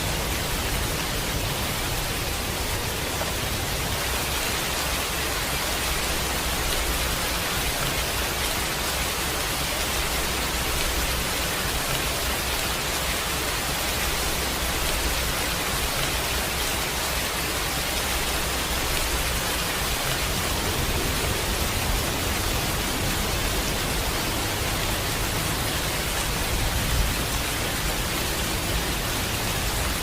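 Steady heavy rainfall, an even hiss of rain with a low rumble underneath.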